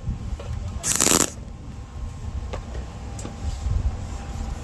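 A welder laying a single short tack weld on thin sheet-metal patch panel, a half-second burst about a second in, followed by a couple of faint clicks.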